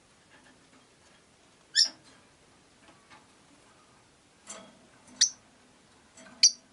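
Rosy-faced lovebirds (Agapornis roseicollis) chirping: three short, sharp, high-pitched calls a few seconds apart, with a softer chirp just before the second.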